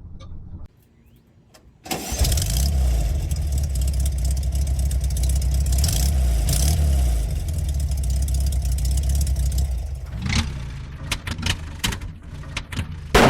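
Chevrolet Suburban's big-block V8 engine starting about two seconds in and running with a steady low idle, dropping off about ten seconds in, followed by several sharp clicks near the end.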